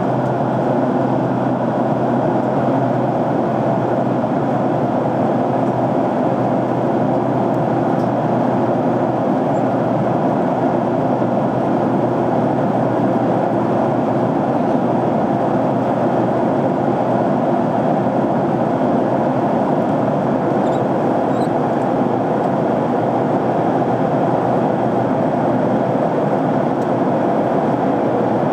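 Jet airliner cabin noise in flight: a steady rush of engine and airflow noise. A faint low hum fades out a few seconds in.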